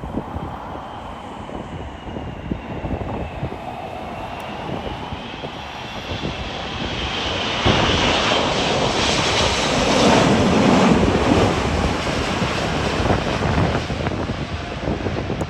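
Jet airliner passing overhead: a rushing engine roar with a high fan whine that wavers in pitch, building to its loudest about ten seconds in and then easing away. Wind buffets the microphone throughout.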